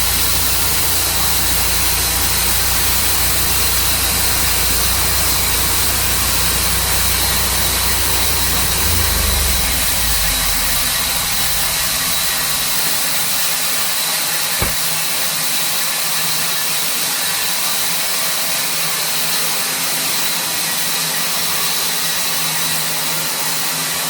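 Sawmill's engine running steadily with a constant hiss; a deep low rumble drops away about halfway through, and there is a single brief click a little later.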